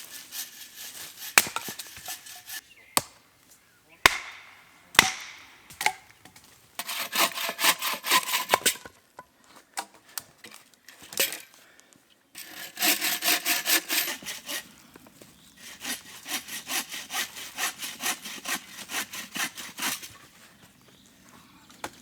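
Hand saw cutting through wood in three bouts of quick back-and-forth strokes, about two to three a second, with pauses between. Before the sawing there are a few sharp knocks and cracks of wood.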